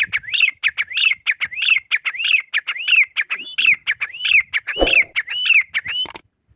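Grey francolin (desi teetar) calling: a rapid, steady string of rising-and-falling notes, about three a second, that stops just before the end. A dull thump sounds about five seconds in.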